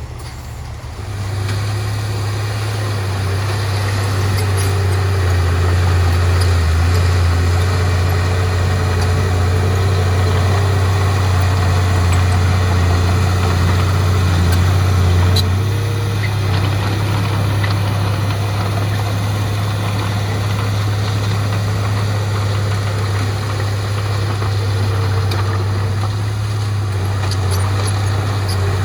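Heavy diesel engine of a dump truck or bulldozer running steadily, a deep drone that swells about a second in and shifts in tone about halfway through.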